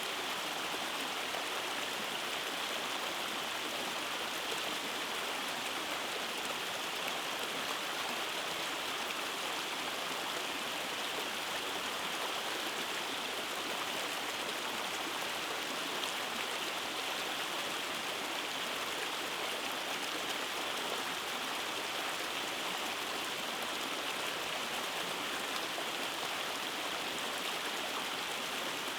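Rainforest stream tumbling over small cascades, a steady, even rush of flowing water.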